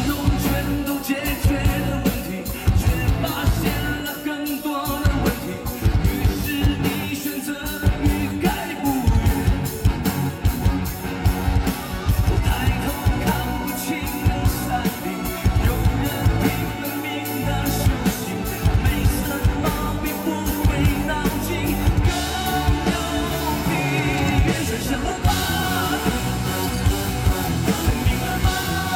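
Live rock band playing loud through a festival PA: a fast, steady drum beat under full band and a singer.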